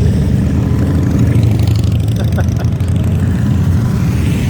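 Motorcycles going by on the road, a steady low engine sound.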